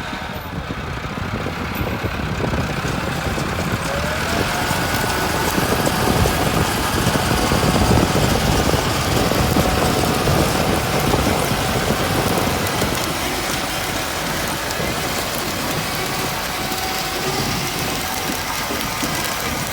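Tractor engine running, growing louder over the first several seconds and then holding steady.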